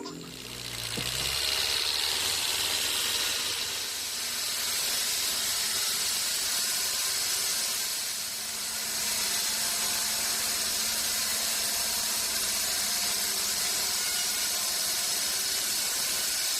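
Sawmill machinery running with a steady, even hiss that builds up in the first two seconds and then holds.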